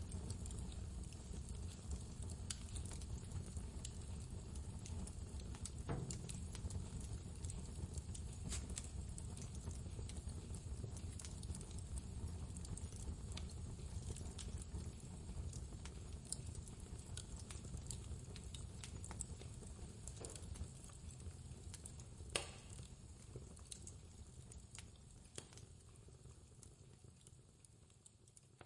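Fireplace crackling, with scattered sharp pops over a steady low rumble of blizzard wind, the whole gradually fading down over the last several seconds.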